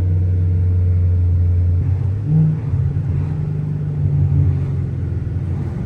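5.7-litre HEMI V8 of a Chrysler 300C under way, a steady low engine drone that drops and starts to waver about two seconds in, with a brief louder swell just after.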